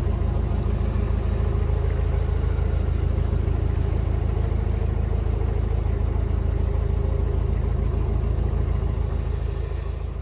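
Narrowboat's diesel engine running steadily at a constant speed, a low hum with a steady drone above it, fading out near the end.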